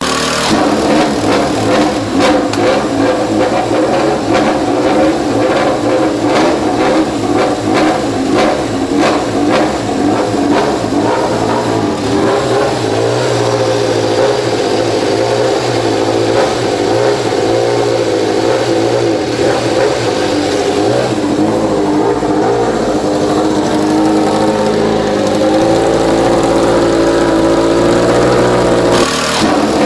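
A motor running steadily for the whole stretch, its pitch wavering up and down, with some rapid clicks or scraping in the first few seconds.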